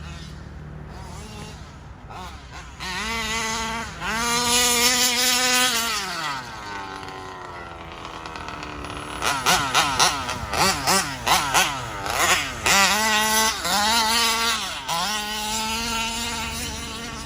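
ALX 85 two-stroke engine of a Losi 5ive-T large-scale RC truck, tuned to a rich carburettor setting, being revved: it rises and holds high for a few seconds and falls back, then gives a string of quick throttle blips, followed by two longer revs.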